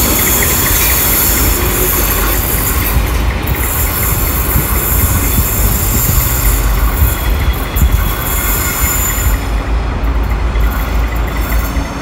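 A train of stainless-steel carriages rolling away around a curve, with a low rumble from the wheels on the rails and a high squeal from the wheels. The sound fades in the last couple of seconds as the train draws away.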